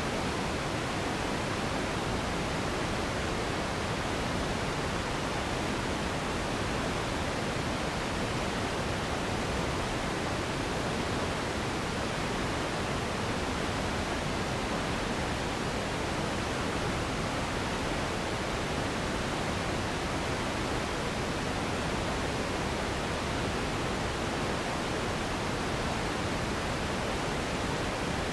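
Steady, unchanging relaxation noise, an even hiss across the whole range that is fuller in the lows and thins toward the highs, like pink noise for sleep.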